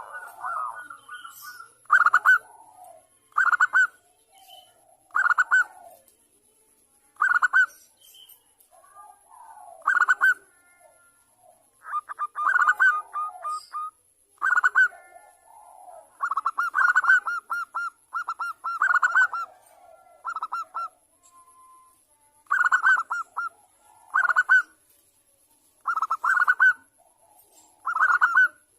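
Zebra dove (perkutut bangkok) cooing. Its rapid rattling coos repeat every second or two, and a few run into longer trilled phrases.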